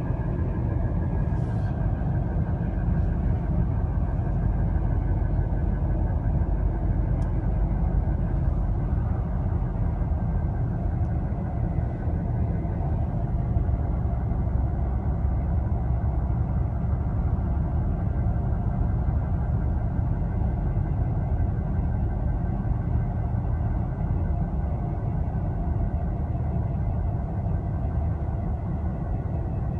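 Acura TLX SH-AWD driving at highway speed: a steady low road rumble, with a faint high whine held over it that drifts slightly down in pitch early on and then stays level. The whine is the fault noise the owner is documenting.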